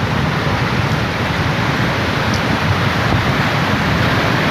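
Floodwater rushing in a steady, loud wash of noise with no breaks.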